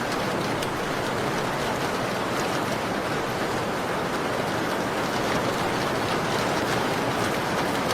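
Steady rain on a window pane, an even hiss with faint scattered ticks of drops over it.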